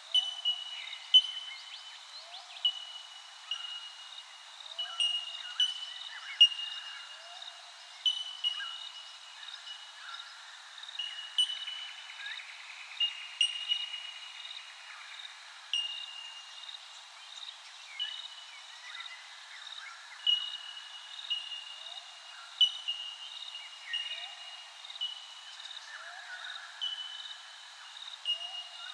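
Birds calling: short, clear, high notes repeat about once a second, with quieter, lower chirps in between and a brief rapid chatter about halfway through.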